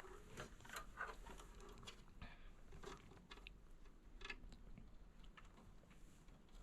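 Faint scattered clicks and rustles of hands twisting and handling the thin wires of a SATA power cable being spliced together.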